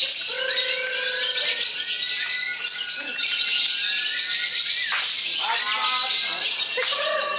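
Many caged lovebirds chattering and trilling at once in long, dense runs, the "ngekek" of contest birds. A held, steady tone with overtones sounds for the first four and a half seconds or so.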